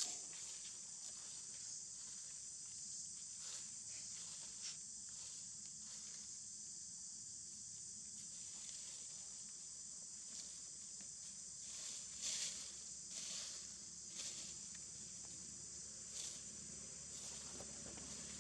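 Steady high-pitched insect chorus, with a few short rustles or taps scattered through it.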